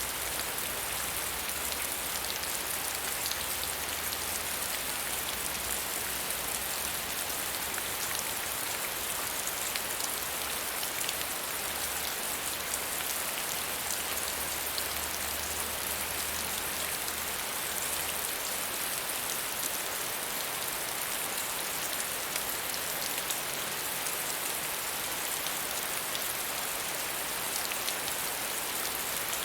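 Steady medium rainfall, a dense even hiss of drops with individual patters, unchanging in strength.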